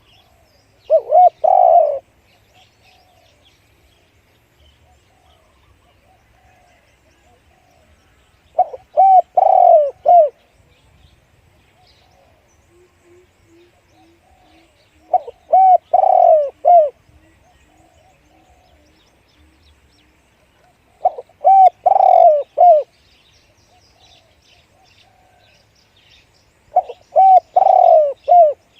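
Spotted dove cooing: five loud phrases about every six seconds, each a quick run of deep coo notes. Fainter calls from other birds come between them.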